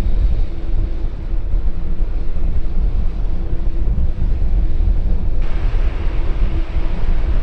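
Jet airliner engines rumbling steadily with wind buffeting the microphone; a brighter hiss joins about five and a half seconds in.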